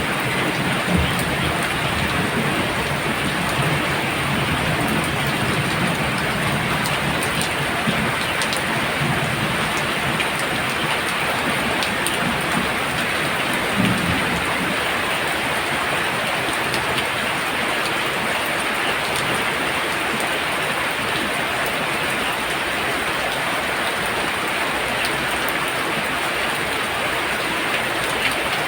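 Heavy rain pouring steadily, with low rumbles of thunder near the start and again about halfway through.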